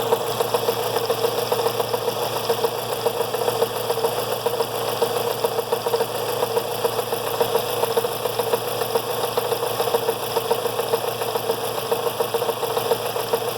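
Fiat Brava 1.6 16-valve engine idling steadily on a test run after its timing-belt tensioner has been re-tensioned, with a steady hum over the engine's rapid even beat.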